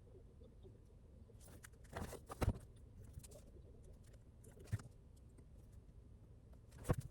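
A few soft knocks and taps at irregular intervals, the strongest about two and a half seconds in and just before the end, over a faint steady background.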